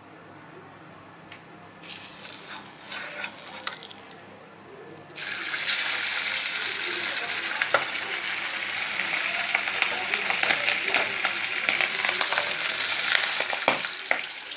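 Hot oil frying in a pan: a soft crackle about two seconds in, then a loud, steady sizzle from about five seconds in, with scattered pops, as fish goes into the oil.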